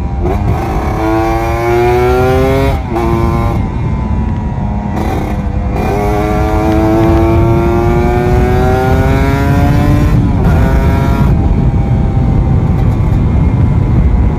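Kawasaki Ninja RR 150's single-cylinder two-stroke engine accelerating hard through the gears. Its pitch climbs and then drops at each upshift, three times, before it settles into a steadier cruise near the end. Wind rushes over the microphone underneath.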